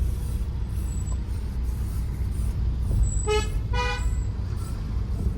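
Steady low rumble of an SUV driving on a road, with a car horn giving two short toots about three and a half seconds in.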